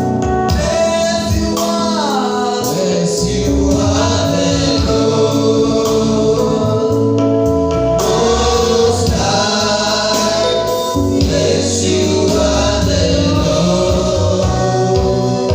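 Gospel worship music with a choir singing over a band with a steady beat.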